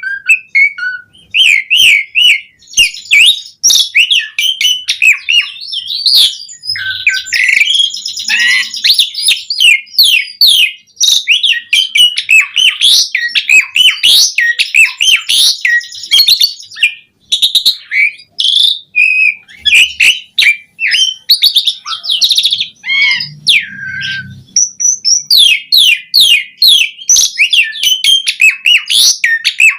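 Asian pied starling (jalak suren) singing in full, fast flow: a dense, unbroken run of chirps, whistles and rattling notes, many sliding up or down in pitch, with varied fill-in phrases worked into the song.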